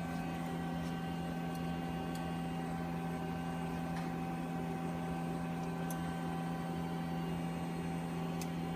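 Steady mechanical hum of running equipment, with a few faint light clicks.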